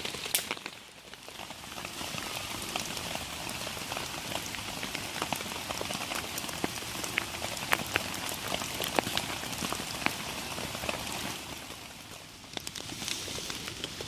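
Heavy rain falling on a tarp shelter: a steady hiss dotted with many sharp individual drop hits.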